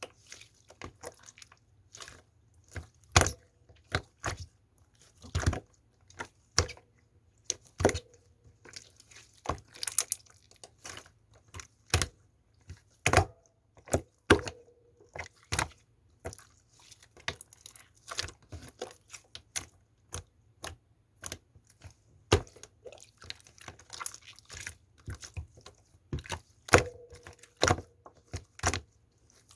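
Slime being squeezed, stretched and poked by hand: irregular sharp clicks and pops as trapped air bursts, a few of them with a short squelchy tone.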